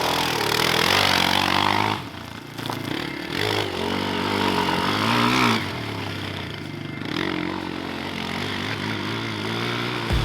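Dirt bike engine revving as it is ridden, pitch rising and falling with the throttle. It drops off sharply about two seconds in and again around the middle, then picks back up.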